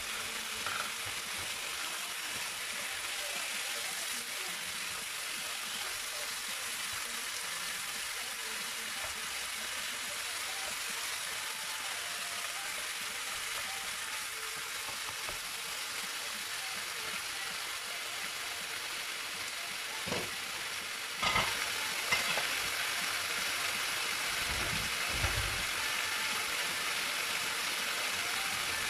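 Chicken pieces sizzling in a non-stick frying pan with onion, garlic and ginger, a steady hiss. About two-thirds of the way in come a few knocks and scrapes as wooden chopsticks turn the pieces, and the sizzle is a little louder after them.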